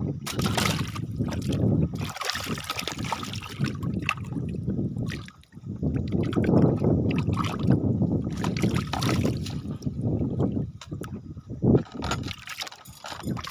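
Water sloshing and splashing around a small fishing boat on a river, with an uneven low rumble and several brief splashy bursts.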